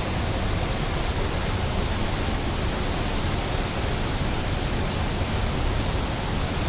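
A fast mountain creek roaring, a steady rush of white water.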